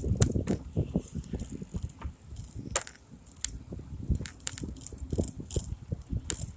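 Bicycle in motion heard through a phone mounted in a holder on the bike: irregular clicks and rattles over a constant low rumble.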